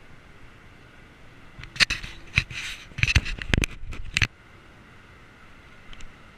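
A burst of sharp clicks, knocks and rattles lasting about two and a half seconds, starting a couple of seconds in, over a steady low hiss.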